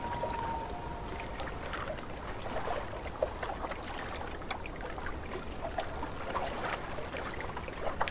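Small lake waves lapping against the shore, with many little splashes and trickles over a low wind rumble. A long, steady wail from a common loon fades out within the first second.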